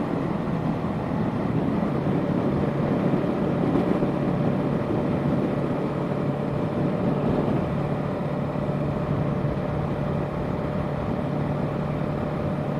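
Yamaha sport bike's parallel-twin engine running at a steady cruise, with a faint steady engine tone under wind rush on the microphone.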